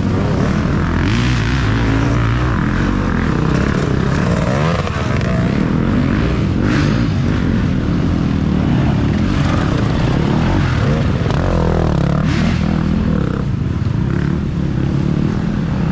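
Racing dirt bike engines revving up and down as bikes ride past on an off-road course. The engine note is continuous, with several rising and falling revs.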